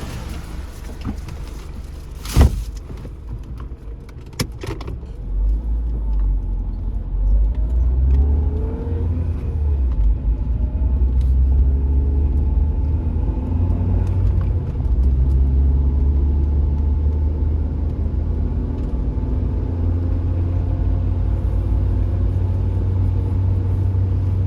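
Car driving: a low road and engine rumble builds about five seconds in as the car gets moving, then holds steady. A few sharp clicks come before it, the loudest about two seconds in.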